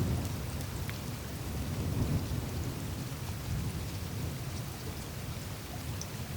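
Glacier ice surface melting: a steady low rumble from meltwater streams running through the ice, with faint scattered ticks and crackles of the ice.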